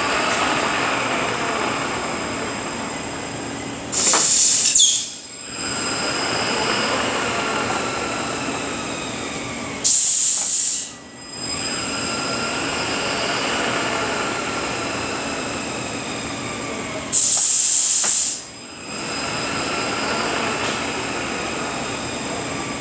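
Rebuilt Eaton Endurant 12-speed automated truck transmission running on a dyno test stand, its gear whine sweeping up and down in pitch. Three times, every six to seven seconds, a loud burst of hiss lasting about a second cuts in, and the running sound briefly drops away after each.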